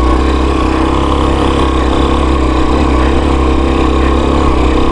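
Dirt bike engine running steadily at low, even revs, with no revving up or down.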